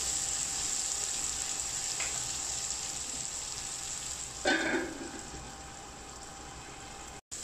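Shallots and tomatoes sizzling in oil in a clay pot while being stirred with a wooden spatula. About four and a half seconds in, a steel lid clatters down onto the clay pot, and the sizzling is quieter after it.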